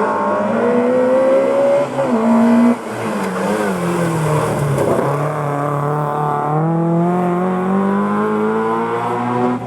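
Historic rally car's engine at high revs: the pitch falls through the middle as the car slows for a hairpin, then climbs steadily as it accelerates out, with a short break near the end as it changes gear.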